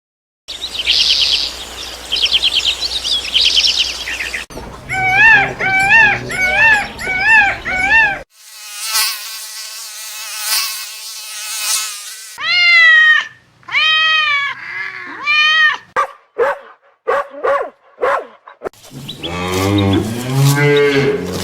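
A run of different animal calls played one after another: rapid high chirps, a string of short repeated arching calls, a stretch of buzzing, more arching calls, a few sharp clicks, and a low drawn-out call near the end.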